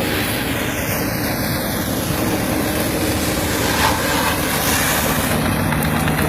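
Farm machinery engine running steadily, with a dense, even mechanical noise throughout.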